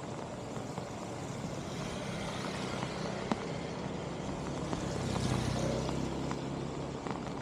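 A motor vehicle going by, its engine hum loudest about five to six seconds in, over a steady rushing noise with a few small clicks.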